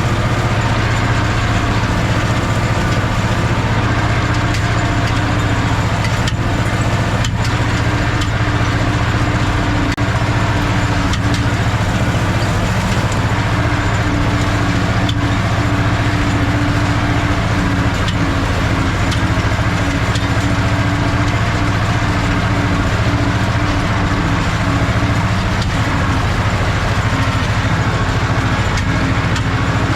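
Ursus C-330's two-cylinder diesel engine running steadily at constant speed while the tractor works a hay rake.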